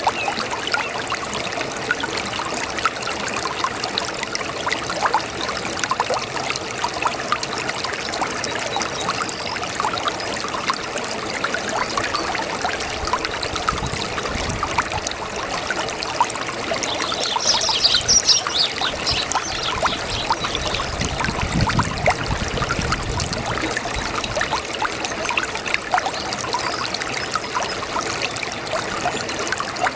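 A babbling brook: shallow water trickling and burbling steadily over stones. Just past halfway there is a brief louder, higher-pitched patch.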